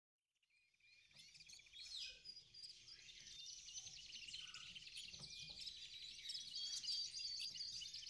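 Several small birds chirping and singing in a busy, overlapping chorus, faint, fading in from silence about a second in.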